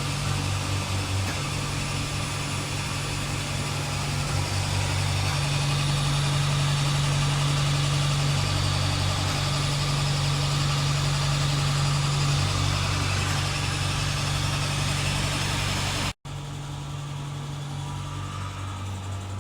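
A vacuum RF body-contouring machine running, with its suction pump and roller handle at work: a low motor hum that shifts between two pitches every few seconds as the vacuum cycles, over a steady hiss. It cuts out for an instant near the end and comes back quieter.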